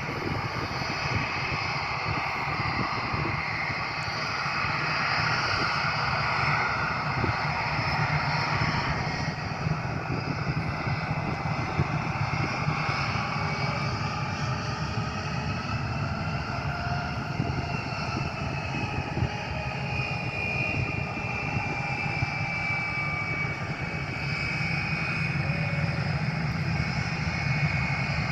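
Airplane engines running steadily for the whole stretch, with a high whine that slowly rises in pitch and then falls away.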